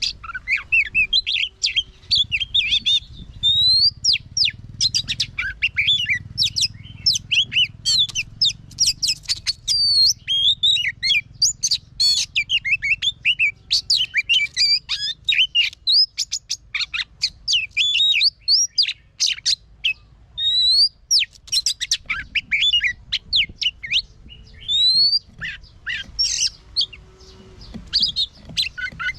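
Oriental magpie-robin singing a long, rapid, varied song of quick whistled notes, slurs and chirps, with only brief breaks.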